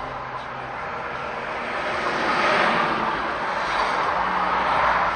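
Road and wind noise of a moving car, a steady rushing that grows louder about two seconds in.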